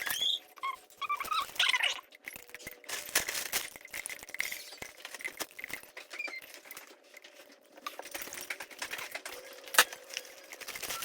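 Scattered light clicks and clatter of small objects being handled and set down, with one sharper click near the end.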